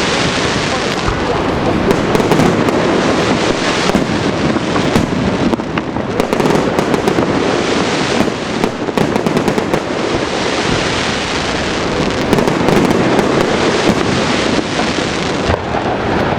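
Fireworks display going off without a break: a dense run of bangs and crackling reports.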